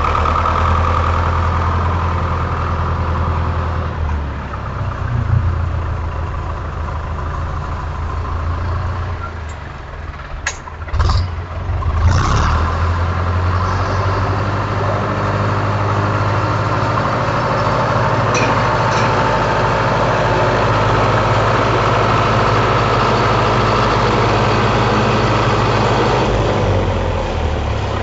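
Tractor engine running steadily at idle. About ten seconds in it drops briefly, and a few sharp clicks are heard; then it settles back to the steady run.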